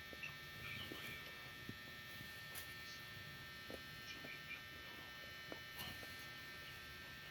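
Steady faint electrical hum with a few scattered faint clicks.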